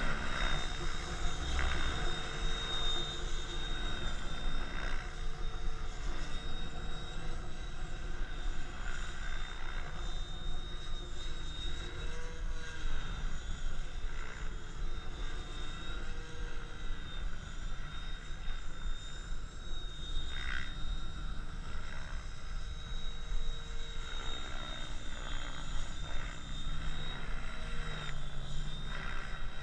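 KDS Innova 700E electric RC helicopter flying, its SAVOX motor and rotor giving a steady high whine with a lower tone that rises and falls as it manoeuvres, over a low rumble of wind on the microphone.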